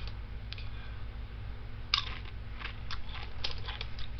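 A person chewing food: a sharp click about two seconds in, then a run of small irregular clicks and smacks, over a steady low hum.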